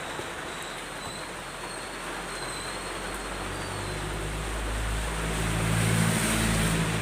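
Steady hiss of rain, with a motor vehicle's engine coming up and passing by, loudest about six seconds in.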